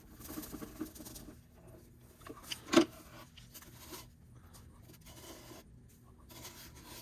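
Rustling and scraping as vacuumed dirt is emptied into a held-open bag, with one sharp knock about three seconds in.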